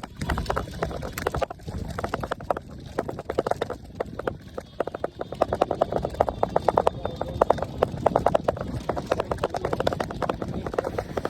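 E-bike in motion giving off a rapid, uneven run of ticks and rattles, denser in the second half, over a low rumble.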